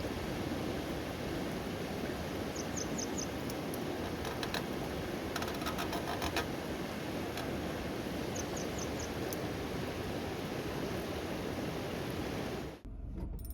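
Steady rain falling, an even hiss with a few faint taps, and two quick runs of four short high chirps. It cuts off suddenly near the end.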